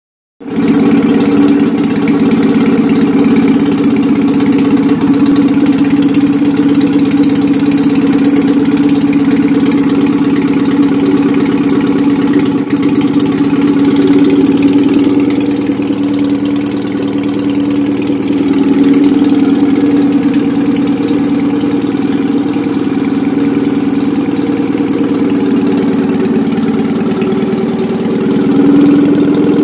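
Citroën 2CV air-cooled flat-twin engine, out of the car, running steadily at idle on a test run after 25 years of standing, swelling slightly in speed a few times.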